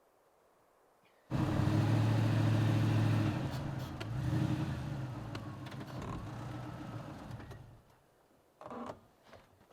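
Truck engine running: it comes in suddenly about a second in, holds steady and loud, then changes pitch and fades out near the end, followed by a few short clicks.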